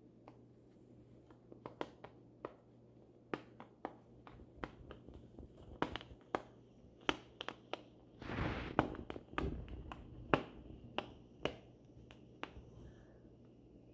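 A cat pawing with its claws for attention: irregular light clicks and taps, with a short scratchy rustle about eight seconds in.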